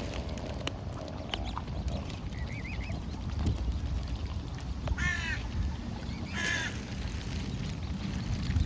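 A bird calling: a short wavering call about two and a half seconds in, then two louder harsh calls about five and six and a half seconds in, over a steady low rumble.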